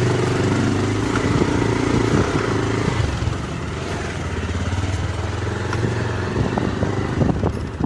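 Motorcycle engine running at a steady pitch while being ridden, easing off slightly about three seconds in.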